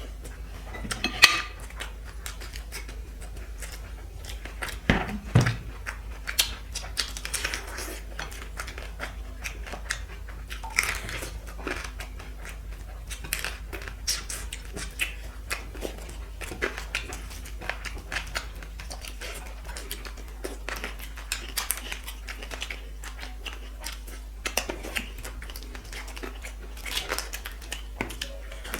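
Close-up eating sounds: chewing and wet mouth noises of a person eating rice and curry, with scattered clicks and clinks of a plate, a sharp clink about a second in and a dull knock about five seconds in.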